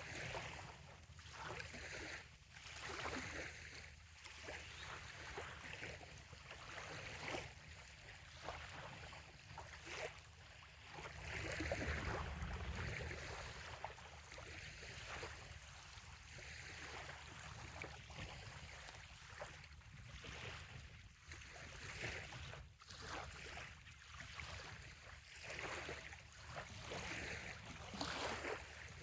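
Small waves lapping and washing onto a sandy bay shore, swelling and fading every few seconds, over a low rumble that grows louder about twelve seconds in.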